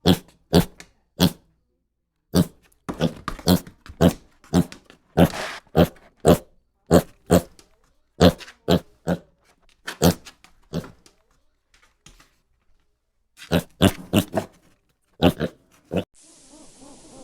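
Pig grunting in a long run of short, separate calls at an uneven pace, with a couple of brief pauses.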